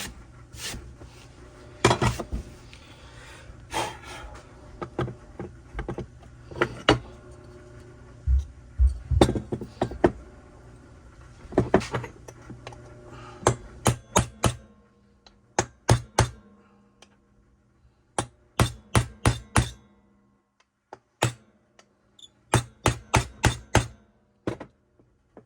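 Hammer strikes driving a main bearing into the crankcase half of a Stihl TS 400 clone concrete saw. The strikes come in quick groups of three to six sharp hits, with pauses between them, until the bearing seats. A steady hum sounds under the first half and stops about halfway through.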